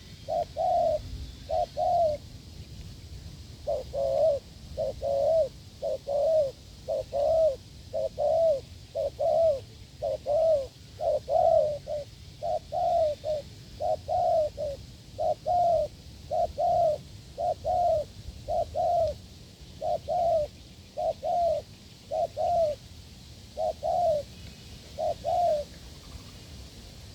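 Spotted dove cooing in a long series of short, firm coos, about one a second, with a brief pause early on, and stopping shortly before the end.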